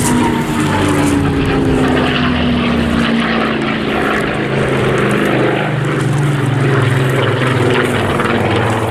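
Rolls-Royce Merlin V12 piston engine of a World War II fighter in flight, a loud propeller drone whose pitch falls steadily over the first few seconds and then settles into a steady low hum.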